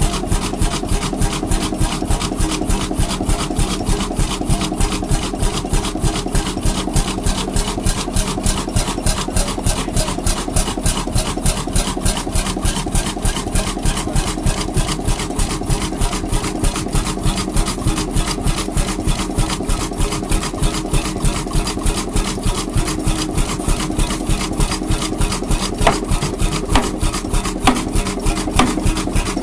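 Vintage engine running steadily with a fast, even beat.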